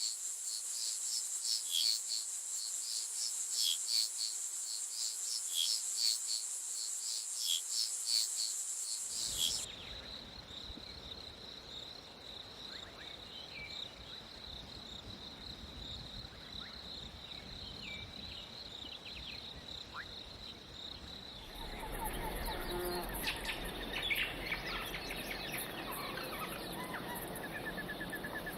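Rainforest insect chorus: a steady high-pitched buzz with rapid repeated chirps, changing abruptly twice to a different insect drone, with scattered bird chirps in the last stretch.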